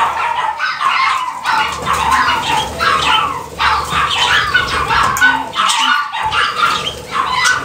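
Many pet birds chattering and squawking at once, a dense run of short overlapping calls.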